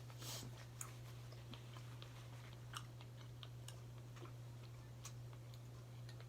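Quiet chewing with small, scattered mouth clicks as a person eats, over a steady low hum.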